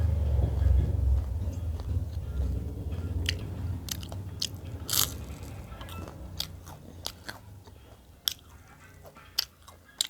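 A person biting and chewing food close to the microphone, with sharp crunchy clicks scattered through. A low rumble fades away over the first half.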